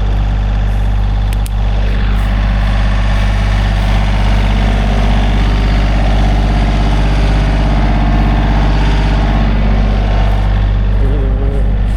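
A vehicle engine running steadily at a constant speed, close and loud.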